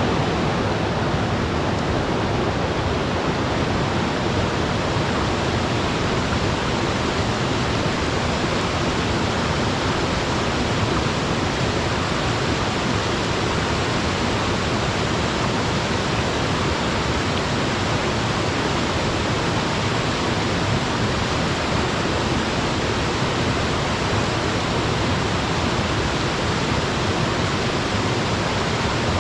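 Small waterfall: water falling and splashing into a pool in a steady, unbroken rush.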